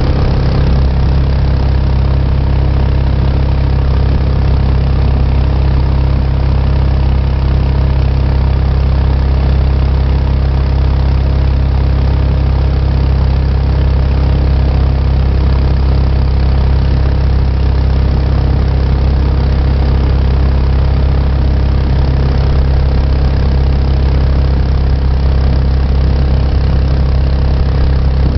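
Mokai jet boat's small engine running loud and steady, with no change in speed.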